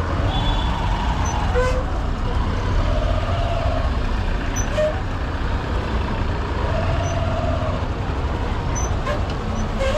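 Honda SP125's single-cylinder four-stroke engine running steadily while riding in dense city traffic, heard from a helmet-mounted microphone with the roar of surrounding vehicles. A few brief, drawn-out tones and clicks from the traffic come and go.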